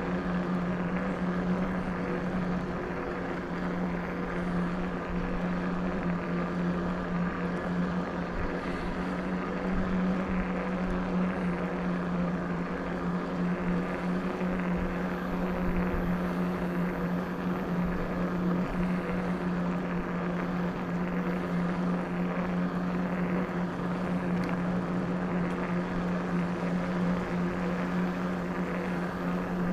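Electric bike motor whining at a steady pitch while riding, over rough rolling noise.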